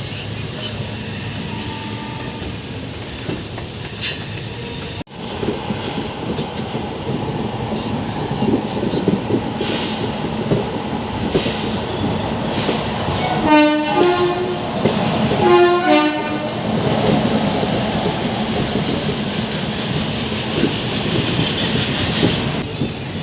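Passenger train running along the track with a steady rumble and wheel clatter. About two-thirds of the way through, a train horn sounds twice, two short blasts about two seconds apart.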